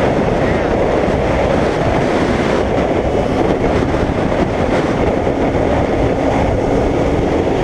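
Steady, loud wind and road rush on a microphone riding on a moving motorcycle, with a faint steady engine tone underneath from about three seconds in.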